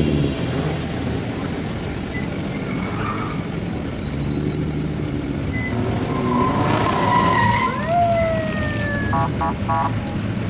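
Vehicle engines rumbling steadily. About eight seconds in, a siren gives one short whoop that rises quickly and then falls slowly, followed by a few quick short blips.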